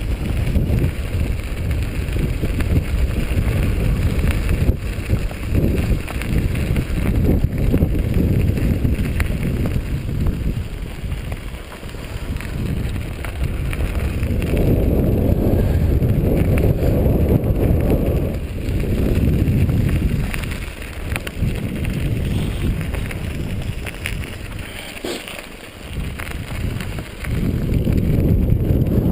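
Mountain bike riding over a dirt trail: wind buffeting the microphone and tyres rumbling on the ground, with frequent small rattles and knocks from the bike. The rumble swells and dips as the ride goes on.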